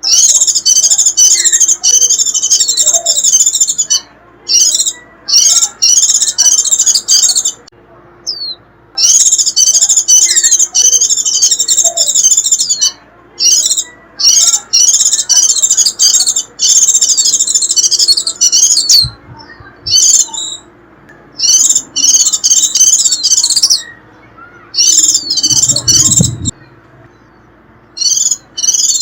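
White-eye giving its rapid, high-pitched 'rít' twittering in bouts of a few seconds, broken by short pauses. It is a lure call used to draw in wild white-eyes.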